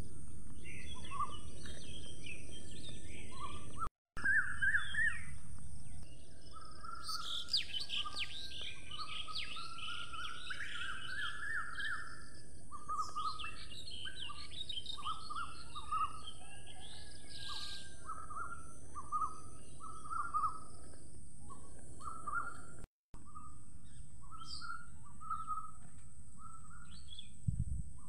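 Many birds chirping and trilling over a steady high hiss, the sound cutting out for an instant twice.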